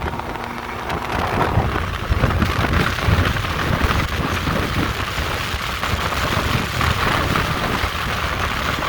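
Car driving at speed, drowned by the low rumble and rush of wind buffeting the microphone.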